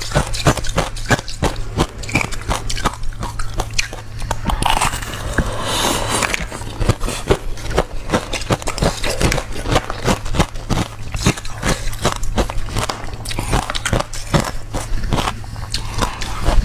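Crunchy shaped ice being bitten and chewed close to the microphone: dense, rapid crunching throughout, over a steady low hum.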